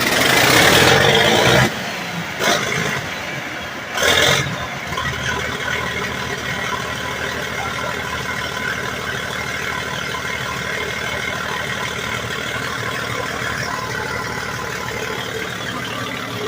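Large bulldozer's freshly rebuilt diesel engine running: loud for the first couple of seconds, with two more short surges about 2.5 and 4 seconds in, then settling to a steady run.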